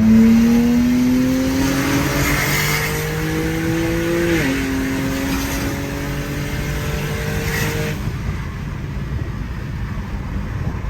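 Single-turbo BMW 335i's turbocharged inline-six pulling hard at full throttle, revving up through one gear, upshifting about four seconds in, and revving up through the next before lifting off near the end. It is running about 13–14 psi against an 18 psi wastegate, and the owner blames the shortfall on a leaking manifold.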